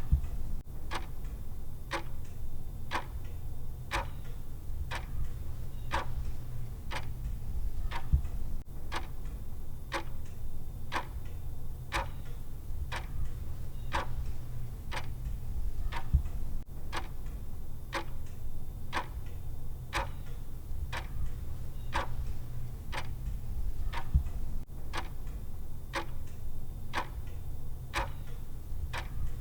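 Clock ticking sound of a countdown timer: one sharp tick a second, evenly spaced, over a steady low hum.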